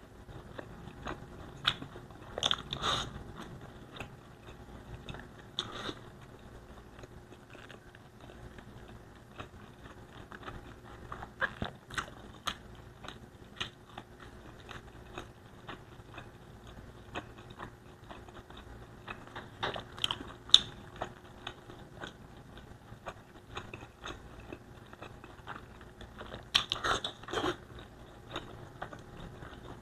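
Close-miked chewing and mouth sounds of someone eating Bicol Express with rice: wet smacks and small crunches, with louder clusters of bites every few seconds.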